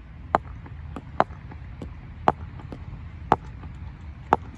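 Five sharp knocks, about one a second, over a low steady background rumble.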